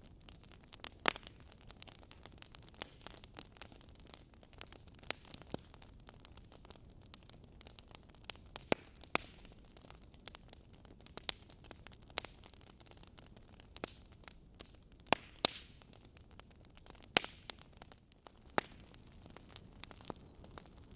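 Wood fire in a fireplace: logs burning with a soft steady hiss and sharp, irregular crackles and pops.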